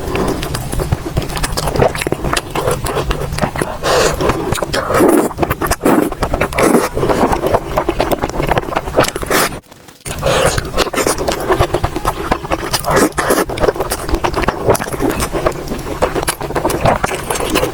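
Close-miked eating sounds: dense, rapid chewing clicks and wet mouth noises, breaking off for a moment about ten seconds in.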